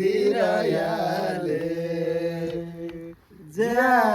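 Voices singing a Nepali folk song unaccompanied, drawing out one long held note. The singing breaks off briefly about three seconds in, then the next line begins.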